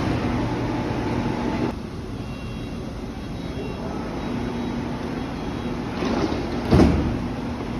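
Train running at a station, a steady rumble with a low hum that drops away suddenly about two seconds in, then builds back. A short loud thump near the end.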